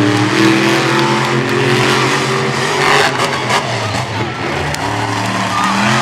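Monster truck engines running hard at high revs, their pitch climbing over the first couple of seconds. There are several sharp bangs about three seconds in.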